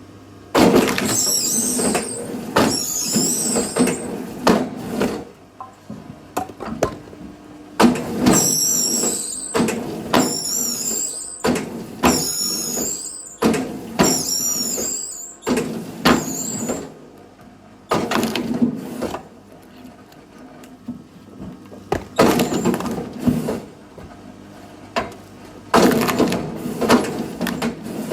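Firewood being split: repeated bouts of creaking and knocking wood, with high, wavering squeals as the wood fibres tear apart.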